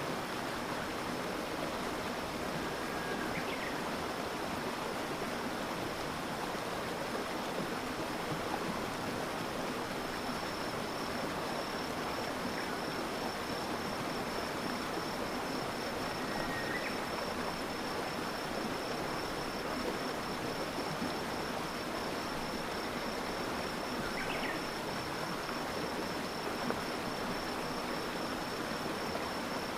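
Flowing river water running steadily. About ten seconds in, a high, steady insect trill joins it and goes on, and a few short chirps sound now and then.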